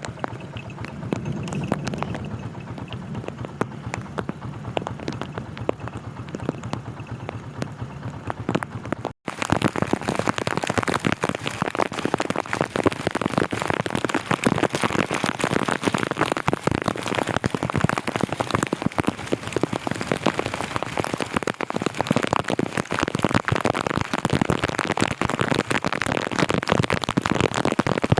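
Heavy rain falling, a dense steady patter of many drops. It grows louder and denser after a sudden break about nine seconds in.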